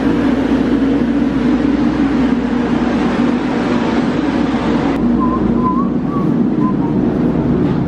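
Steady low drone of an airliner cabin, with ventilation and aircraft systems running.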